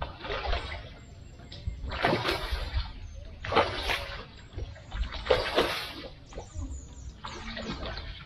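A hooked striped catfish thrashing at the surface of the pond as it is played in to the bank, splashing water about five times in a row, each splash lasting about half a second.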